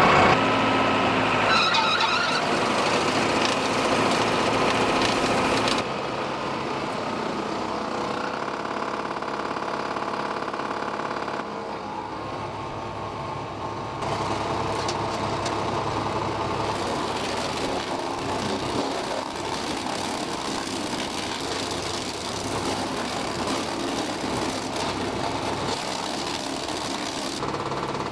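Tractor-driven wood chipper running on the tractor's 75-horsepower diesel engine, with a steady mechanical sound that changes abruptly several times.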